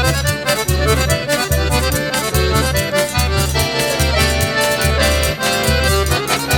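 Instrumental forró pé de serra: an accordion playing the melody over a steady low drum beat of about two to three strokes a second, with fast high ticks keeping time.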